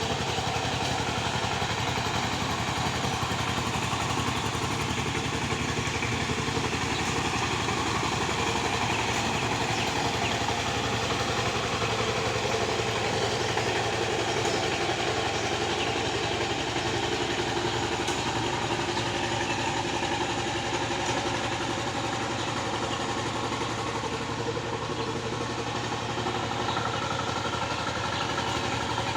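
Tractor engine running steadily, holding an even, unchanging pitch.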